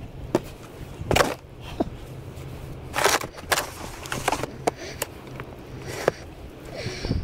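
Snow shovel scraping and pushing snow in a few irregular strokes.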